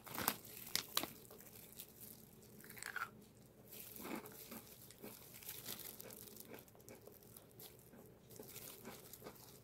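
Biting and chewing crispy-skinned fried chicken karaage, a few sharp crunches in the first second or so, then quieter chewing.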